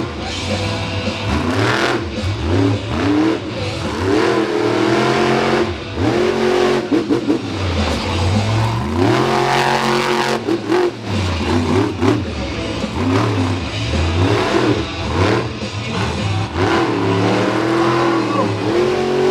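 Monster truck engine revving hard again and again, its pitch climbing and dropping with each burst of throttle through a freestyle run.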